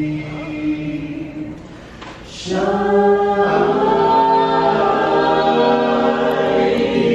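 A cappella choir singing long-held chords in close harmony. It drops quieter about two seconds in, then swells into a louder, fuller chord.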